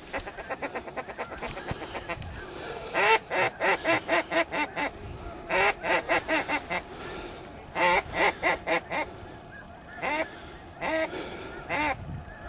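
Ducks and geese calling: rapid quacking chatter, then repeated runs of loud quacks and honks at about four or five a second, with a few single calls near the end.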